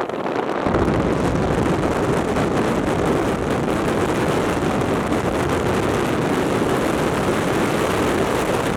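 A vehicle on the move, heard as a steady rush of engine, road and wind noise with wind buffeting the microphone. The low rumble steps up under a second in and then holds steady.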